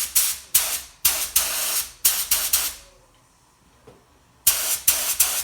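Compressed-air paint spray gun triggered in short bursts of hissing air, being test-fired while its settings are adjusted before painting. A run of bursts, one lasting about a second, then a pause and another run near the end.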